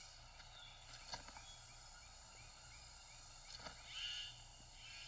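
Faint rainforest birdsong: a run of short repeated chirps, about four a second, through the middle, then a brief higher call about four seconds in.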